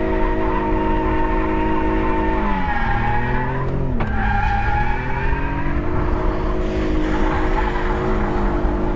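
BMW E46 330i's inline-six engine held at high revs through a drift, dipping in pitch about two and a half seconds in and climbing back up a couple of seconds later, with tyre squeal mixed in.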